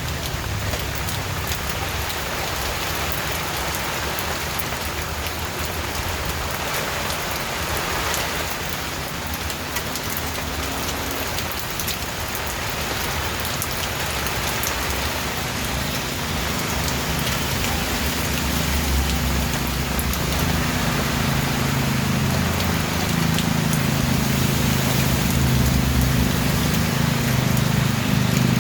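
Steady rain falling, an even hiss of drops on surfaces. A low rumble builds underneath from about halfway through and grows louder toward the end.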